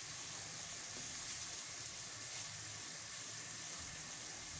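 Chopped onion and cumin powder frying in hot oil in a kadhai, a steady sizzle.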